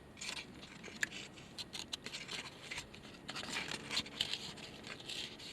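Scratching, crinkling and small clicks as the skin is slid back and the flesh is picked apart on a grilled croaker, in many short, uneven scrapes.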